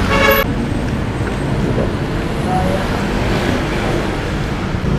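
Steady road and traffic noise around a motorcycle taxi. A short bit of a voice comes at the very start.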